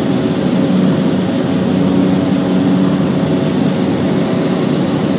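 Cessna 208B Grand Caravan's single turboprop engine and propeller droning steadily during takeoff, with a thin, high, steady whine above the drone.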